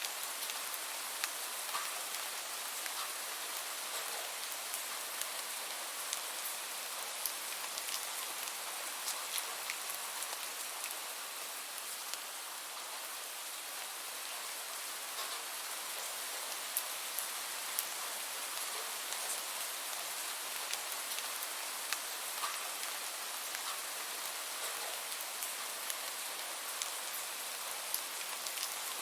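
Steady rain falling, an even hiss with many scattered drops ticking sharply on a surface.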